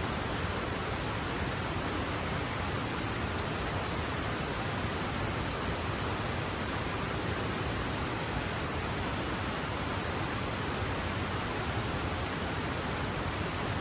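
A creek flowing constantly, a steady, even rush of water.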